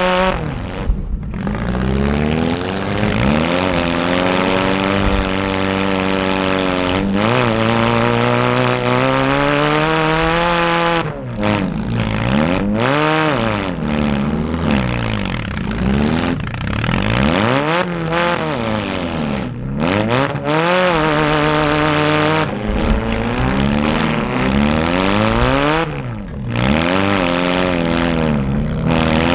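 Demolition derby car engines revving hard, the pitch climbing and falling back over and over as the cars accelerate and back off between hits.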